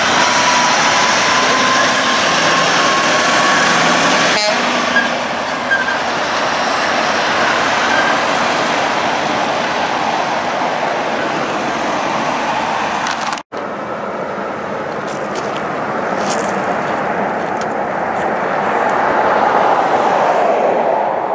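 Heavy-haulage trucks hauling oversize loads driving past, with steady engine and tyre noise and a few faint held tones. The sound cuts out for an instant about two-thirds of the way through, then goes on.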